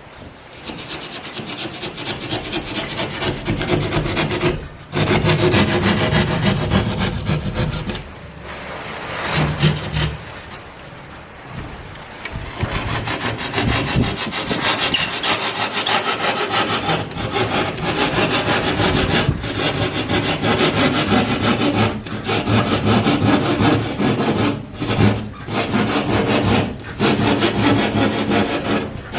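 Sawing in long continuous runs with a few short pauses.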